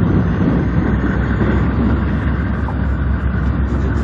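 Steady low vehicle rumble with a noisy wash above it, without clear breaks or single impacts.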